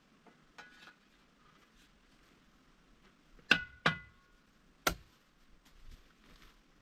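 Sharp metallic clanks: two in quick succession that ring briefly, then a third about a second later, with a couple of faint clinks near the start.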